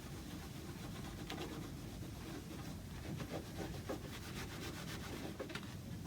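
Cloth rubbing faintly and steadily over the wooden clock case, wiping it with a vinegar-based cleaner to lift old dirt off the finish.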